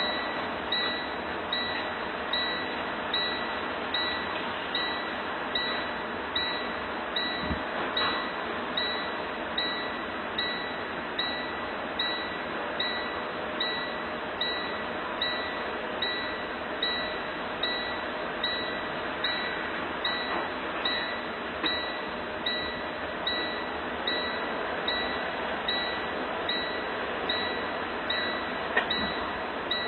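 A high chime repeating steadily about once a second over a constant rushing noise.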